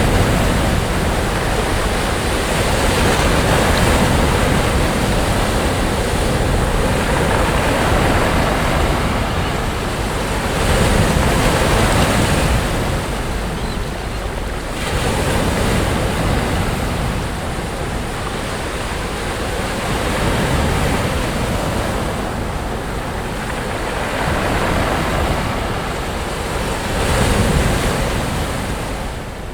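Sea waves breaking on a beach: a continuous wash of surf that swells and eases every few seconds, with stronger surges about a third of the way in and near the end.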